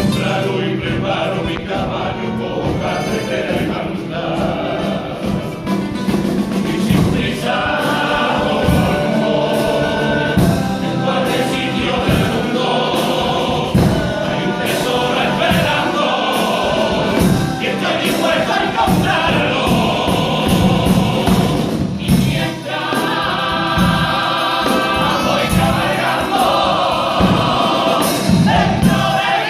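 A group of voices singing a song medley in chorus, with a regular percussive beat under the singing.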